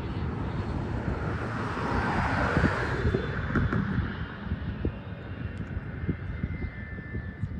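Zip line trolley whizzing along the steel cable as a rider speeds away, a rushing hiss that swells to a peak a couple of seconds in and then fades, leaving a thin whine near the end. Wind buffets the microphone.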